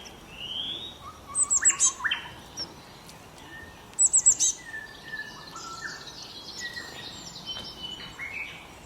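Several songbirds singing and calling, with rising whistled notes in the first second and two bursts of rapid, high, loud notes about one and a half and four seconds in, then scattered lower calls. A faint steady hiss lies underneath.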